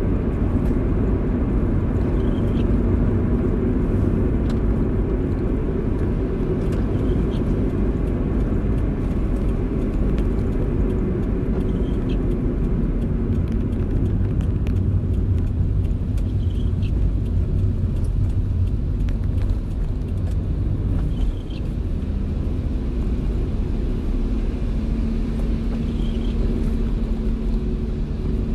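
Car driving in the rain: a steady low road and engine rumble with scattered light ticks from rain. A faint short high chirp comes about every five seconds.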